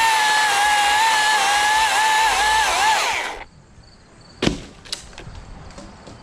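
Chainsaw running at full speed with a steady high whine that wavers as it cuts, then winds down in pitch and stops about three and a half seconds in. About a second later comes a single sharp knock, followed by a few light clicks.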